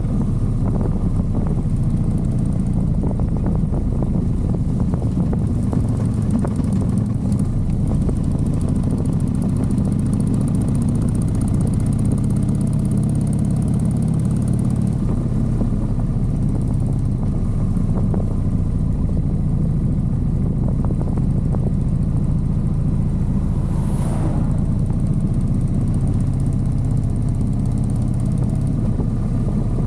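Motorcycle engine running steadily at road speed, a continuous low drone, with a short falling sweep in pitch a little past two-thirds of the way through.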